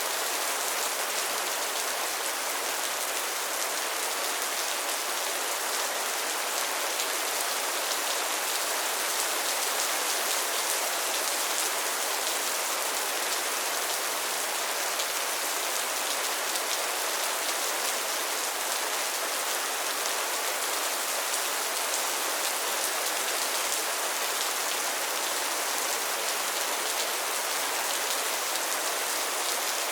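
Steady rain falling on a pond and its lily pads, an even hiss of many small drops with fine patter throughout.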